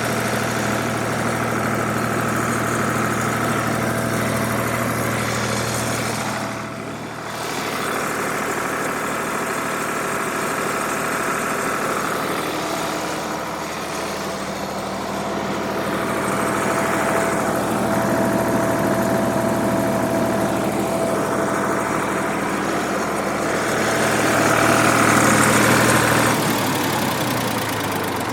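1967 Ford 2000 tractor's three-cylinder engine running steadily with the PTO engaged, turning over to stir up the oil before an oil change. The engine note dips briefly about seven seconds in and shifts again near the end.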